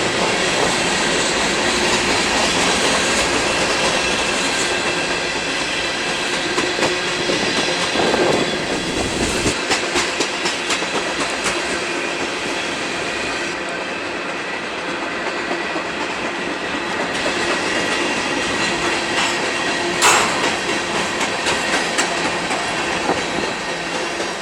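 Freight cars of a mixed freight train rolling past steadily, their wheels clicking over rail joints, with a faint, steady high-pitched wheel squeal.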